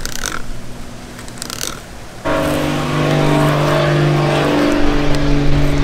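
Wind rumbling on the microphone with a brief scrape of the fillet knife through the flounder; a bit over two seconds in, a vehicle engine's steady hum starts suddenly and holds one pitch.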